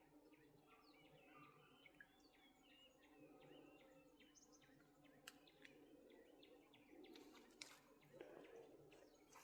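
Faint birds chirping, many short overlapping calls, over a low steady background of outdoor noise, with a couple of sharp clicks in the second half.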